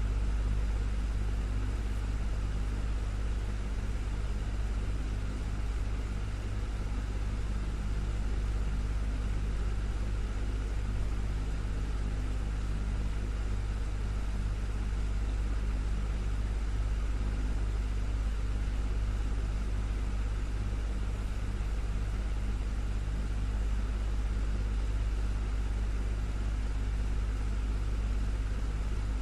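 Desktop fan running steadily: a constant low hum with a soft rush of moving air over it.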